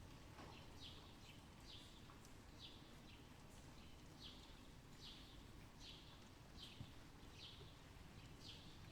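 A bird chirping over and over, short falling chirps a little more than once a second, faint above a steady low outdoor rumble.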